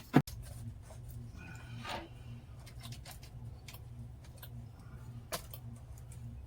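Small parts of an RC crawler being handled: a sharp click just after the start, then scattered light clicks and taps, over a steady low hum.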